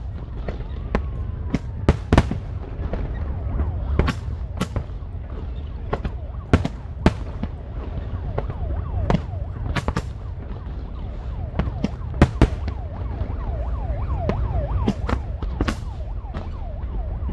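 Fireworks display: an irregular series of sharp bangs from aerial shells bursting, with many short whistling glides between them that are thickest near the end, over a steady low rumble.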